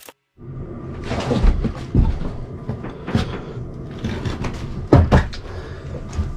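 A few sharp knocks and thumps over steady rustling and handling noise, spaced irregularly about a second apart.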